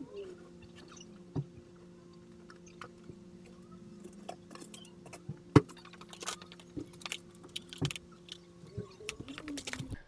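A steady low hum that stops near the end, under scattered clicks and light rattles, with a pigeon cooing near the end.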